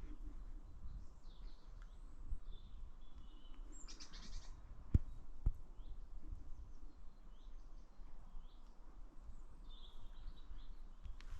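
Small birds singing and calling: short high chirps and whistles scattered throughout, busiest about four seconds in, over a low outdoor rumble, with two sharp clicks about five seconds in.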